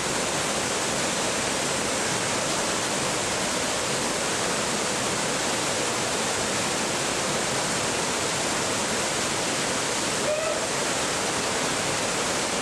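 Steady rushing of water pouring over a small waterfall. A brief faint call of a voice comes through about ten seconds in.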